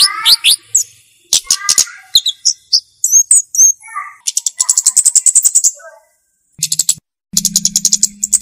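Flowerpecker (cabe-cabean) calling: sharp, high chips and fast ticking trills, with runs of about ten ticks a second around the middle and near the end. Some lower falling notes sound near the start.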